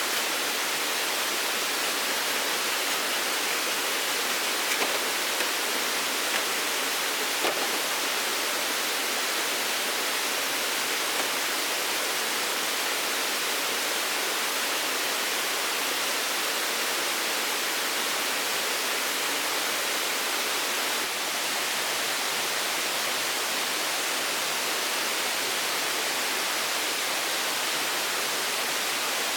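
Steady rushing noise of water, with a few faint clicks in the first third.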